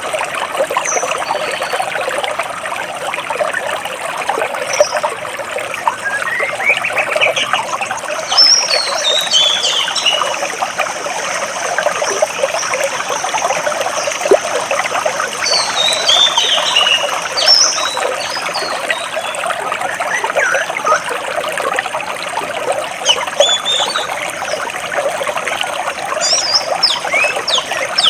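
Water flowing and trickling between rocks, a steady splashing rush, with birds chirping now and then in short runs of quick high chirps above it.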